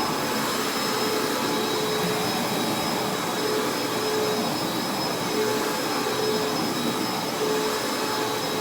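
Carpet-washing vacuum cleaner running steadily as it deep-cleans a carpet, a steady motor noise with a thin high whine and a lower hum that fades in and out.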